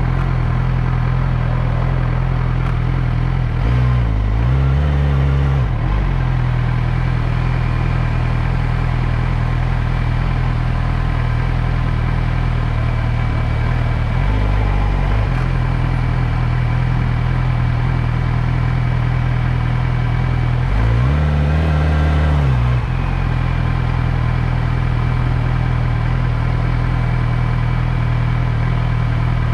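Motorcycle engine running steadily under way. Its revs dip and climb back up a few times, around four seconds in and again about twenty-one seconds in.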